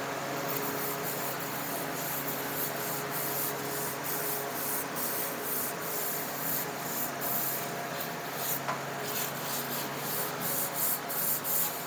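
A brush scrubbing acid brightener onto a metal airplane exhaust pipe: repeated short scratchy strokes, a couple a second, quickening near the end, over a steady low hum.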